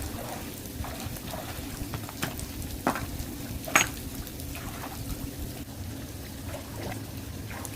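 Shallow water trickling, with scattered short splashes and one sharp click a little under four seconds in.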